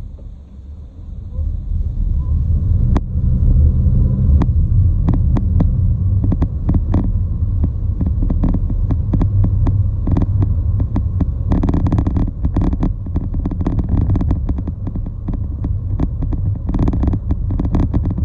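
Loud, low rumble of a vehicle in motion, building over the first few seconds, with many quick irregular clicks and rattles on top from about three seconds in.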